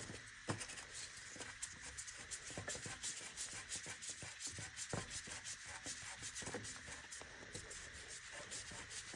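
Faint rubbing and scraping with scattered light clicks as the oil filter housing cap is screwed on by hand, to hand tight.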